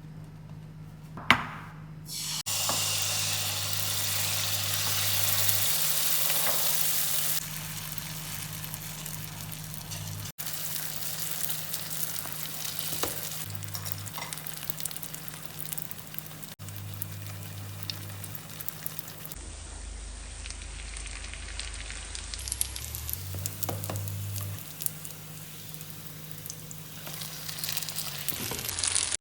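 Food frying in hot oil, sizzling steadily. A sharp knock comes about a second in. The sizzle starts loud a couple of seconds in, then eases after a few seconds and carries on.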